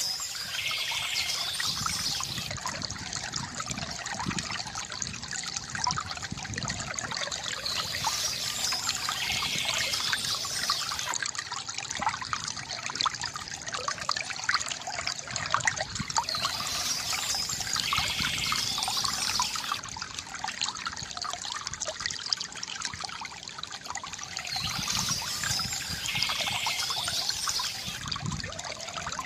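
Water from a bamboo fountain trickling and splashing steadily into a pool, with a continuous gurgling and dribbling.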